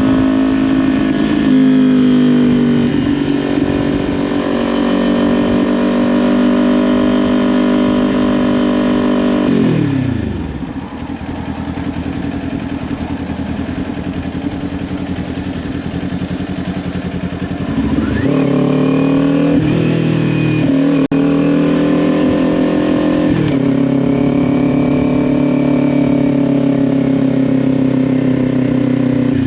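Kawasaki Ninja 400 parallel-twin engine through a Leo Vince LV10 exhaust, ridden on the road. It holds a steady note, then drops off about ten seconds in. It climbs again in quick rises about eighteen seconds in, holds steady, and drops off again at the very end.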